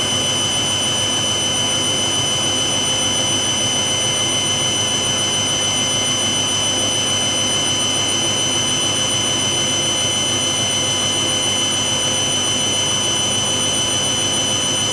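Hoover WDYNS654D slim-depth washer dryer spinning at high speed: a steady, loud motor and drum whine with several high constant tones over a hum, holding the same speed throughout.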